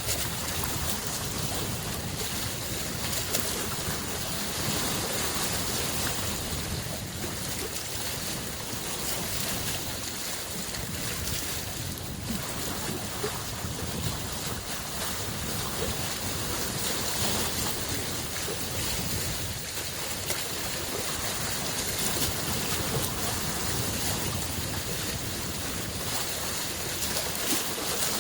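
Small lake waves washing against the shore in a steady, continuous wash, with small splashes here and there.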